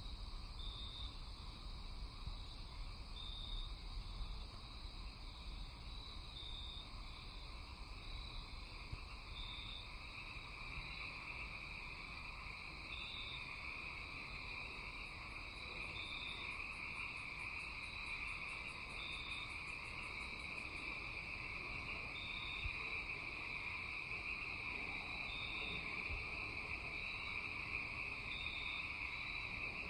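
Night insect chorus: crickets chirping in short, evenly spaced high pulses about every second and a half over a steady high insect drone. A brief fast, very high trill comes in midway.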